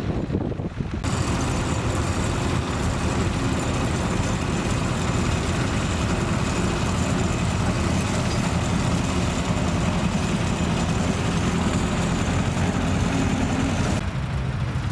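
Tractor engine running steadily. It cuts in abruptly about a second in and cuts off just before the end.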